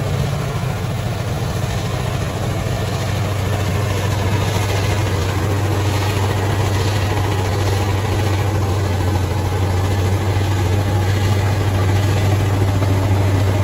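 Diesel engine of a heavy earthmoving machine running at a steady, low pitch.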